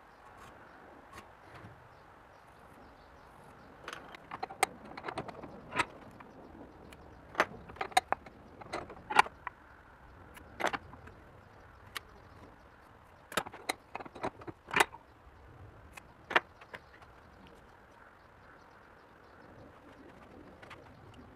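Irregular sharp clicks and light knocks of objects being handled and set down, some ringing briefly like metal. They come in scattered clusters through the middle of the stretch, over a quiet steady background.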